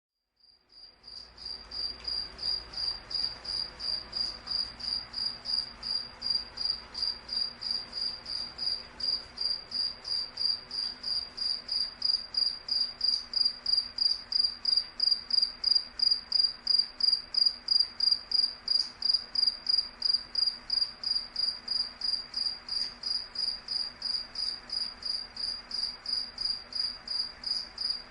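A cricket chirping: a high, pure-toned chirp repeated evenly about three times a second, fading in over the first second or two and then holding steady.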